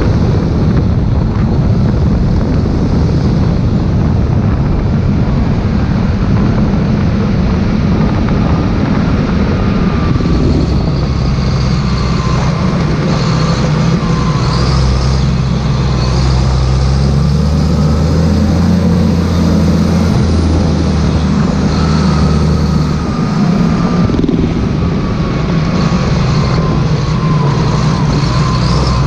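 Claas Xerion 3800 tractor's diesel engine running steadily and loud, its pitch shifting a little from about twelve seconds in to about twenty-four seconds in.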